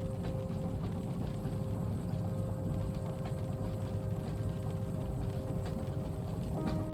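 Moving train carriage ambience: a steady low rumble of the train running, with light irregular clicks over it and faint humming tones that shift in pitch about six and a half seconds in.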